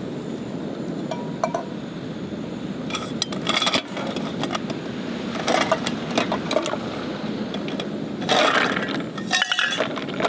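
Camp cookware and utensils clinking and scraping in short irregular clusters, over a steady low background rush.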